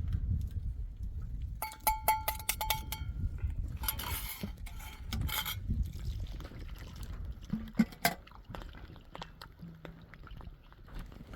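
A quick run of metallic clinks with a ringing tone about two seconds in, followed by a couple of short splashing rushes and a single knock later on.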